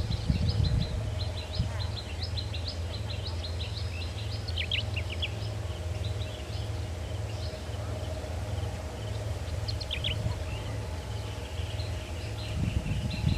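Small birds chirping, a rapid run of many short high notes, with two brief bursts of sharper falling calls. Under them is a steady low rumble of background noise.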